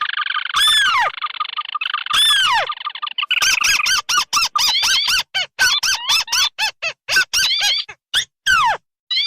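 Bird-lure recording of crake calls. A steady buzzing trill runs with two descending calls over it. From about three seconds in come rapid, repeated harsh descending notes.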